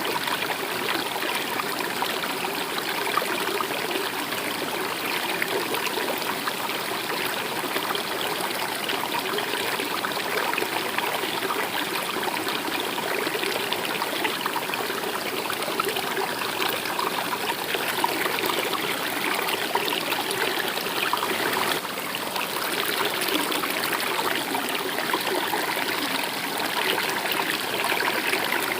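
A stream flowing steadily, with a constant trickling, running-water sound.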